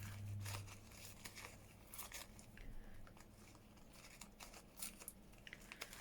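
Faint rustling and crinkling of a dried tea bag's thin paper being handled and pulled open, with scattered small clicks and crackles.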